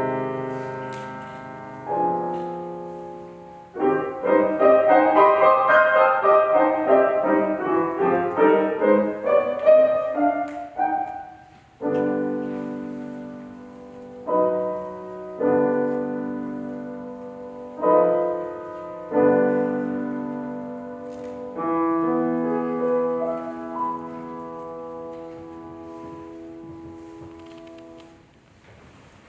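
Piano playing: single chords struck and left to ring and die away between short pauses, a fast, loud flurry of notes in the middle, then further spaced chords growing softer near the end.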